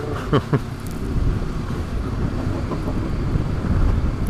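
Honda CB500X parallel-twin engine running steadily while riding, mixed with wind noise. A brief vocal sound from the rider comes about half a second in.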